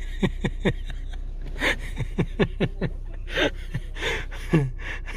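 A person laughing in short, breathy chuckles, several a second, with a few gasping breaths in between.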